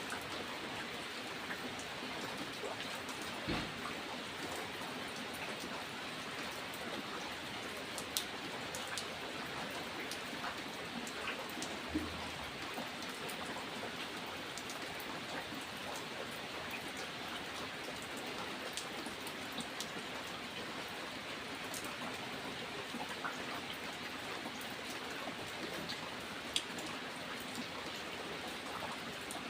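Steady rain falling, a constant hiss with individual raindrops tapping through it. A few louder drips stand out sharply, around 8, 12 and 26 seconds in.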